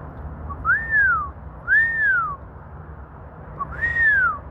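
Clear whistling: three identical notes, each gliding up and then down, with a fourth starting at the very end, over a steady low rumble.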